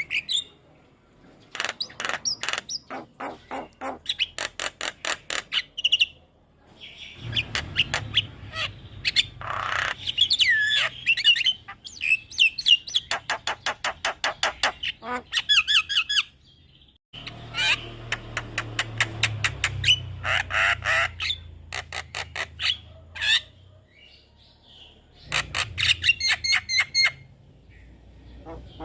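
Javan myna calling in bursts: fast runs of harsh, evenly repeated chattering notes, several a second, mixed with squawks and short whistled glides, with brief pauses between runs.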